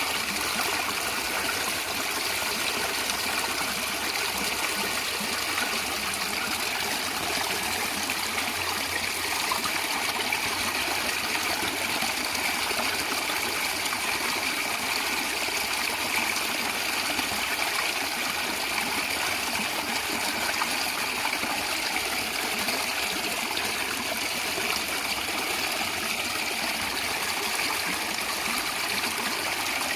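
A natural stream gurgling and trickling over rocks, steady and unbroken.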